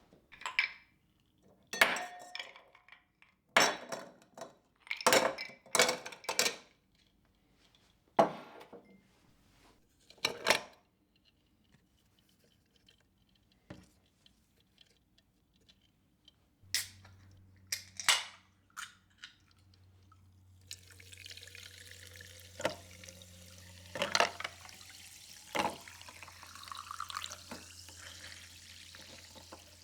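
Dishes, glasses and cutlery clinking and being set down one after another in separate sharp knocks. About two-thirds of the way in a steady hiss starts over a low hum, with a few more clinks on top.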